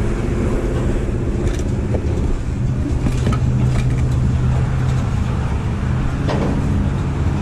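A vehicle engine idling, a steady low drone, with a few faint clicks.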